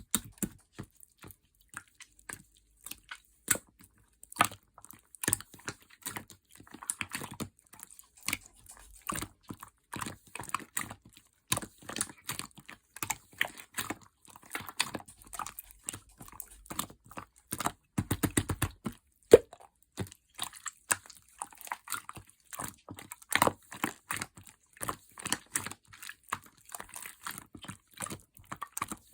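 Slime being squished, stretched and poked by hand, making a continuous run of small sticky clicks and pops.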